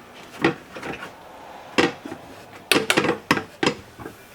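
A window's pleated blackout shade being handled: a few light clicks and knocks, several of them close together about three seconds in.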